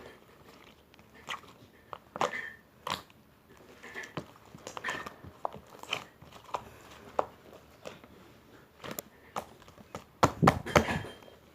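Irregular clicks, taps and short rustling knocks of close handling, with a louder cluster about ten seconds in.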